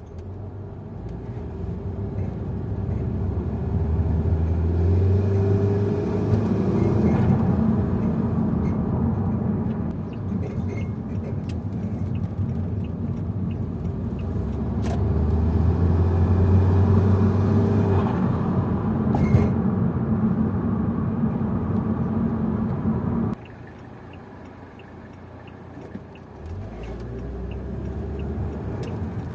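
Saab 9-5 2.0t's turbocharged four-cylinder engine, breathing through an open air filter, pulling under throttle twice in city driving. The sound drops off abruptly about 23 seconds in as the throttle closes, then picks up again near the end.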